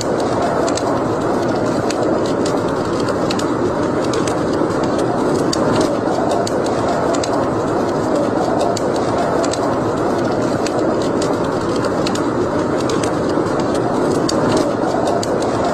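Wood fire burning in a fireplace: a steady rushing noise with many small, irregular crackles and pops.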